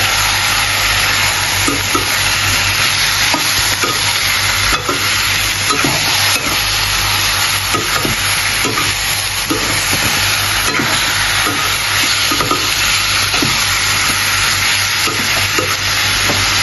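Chicken pieces sizzling in hot oil in a metal kadai, stirred with a slotted metal ladle. The ladle scrapes and clicks against the pan at irregular moments.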